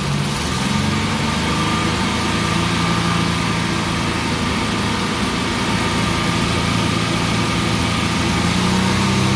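Car engine held at a steady 2,500 RPM during an exhaust back pressure test. Its pitch rises slightly in the first second, then stays steady.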